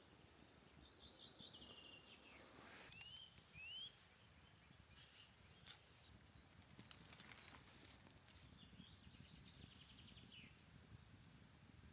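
Faint birdsong against quiet outdoor ambience: a high trill, two short rising chirps, then another trill near the end, with a few soft clicks.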